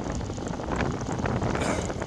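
Strong wind buffeting a bike-mounted action camera's microphone while riding, over a rumbling road noise with scattered clicks. A short high hiss comes in about one and a half seconds in.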